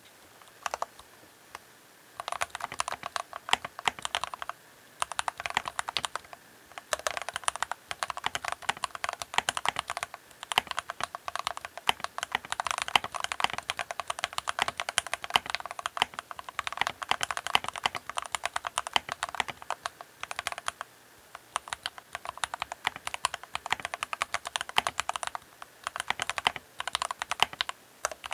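Typing on a Keychron K8 Pro mechanical keyboard: a few single keystrokes, then fast continuous key clicks with brief pauses.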